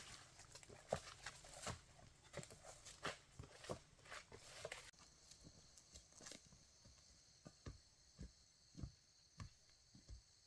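Faint, irregular taps and knocks, thinning out after about five seconds, when a faint steady high-pitched hum comes in.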